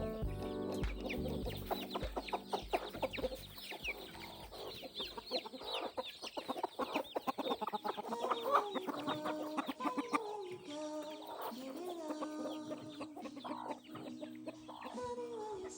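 Chickens clucking, with quick high chirping in the first half and drawn-out falling hen calls in the second half.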